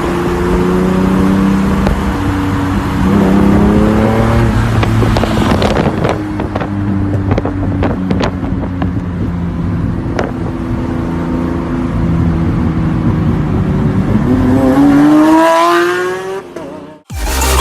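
Lamborghini Aventador SVJ's naturally aspirated V12 running loud through its exhaust, its pitch stepping up and falling back as it is revved. Sharp exhaust pops and crackles come in the middle. A long rising rev near the end cuts off suddenly.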